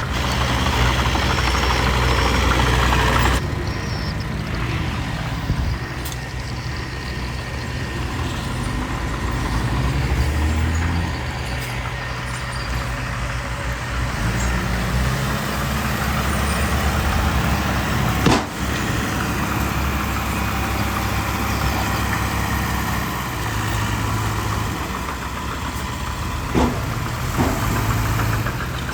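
Diesel engines of earthmoving machinery running steadily, with the dump trucks and bulldozer working the fill. The sound drops a little about three seconds in; a sharp knock comes just past the middle and two short knocks near the end.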